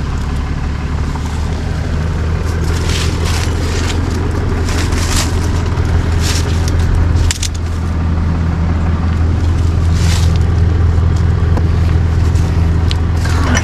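A vehicle engine idling steadily with a low hum, with short scraping and rustling noises now and then.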